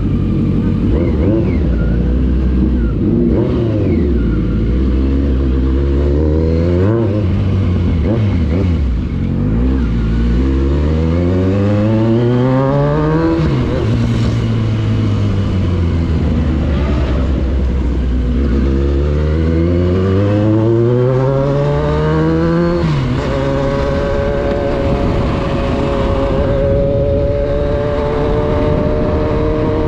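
Motorcycle engine accelerating through the gears, its pitch climbing in long sweeps and dropping at each upshift, four times, then holding a near-steady pitch for the last several seconds at cruising speed, with wind and road rush underneath.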